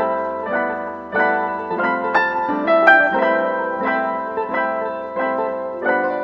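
Background music: piano or electric keyboard playing a slow melody over sustained chords, with a new note struck about every half second.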